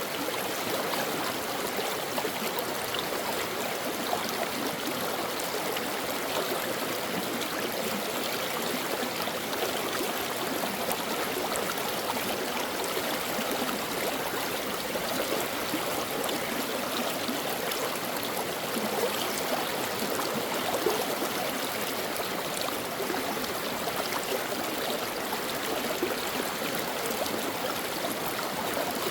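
Brook water flowing: a steady, even rush of running water with fine, constantly shifting splashy detail.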